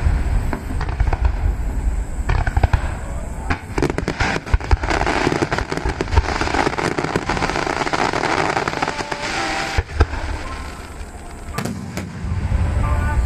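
Display fireworks shells bursting in quick succession with deep booms and sharp reports. A dense crackling fills the middle several seconds.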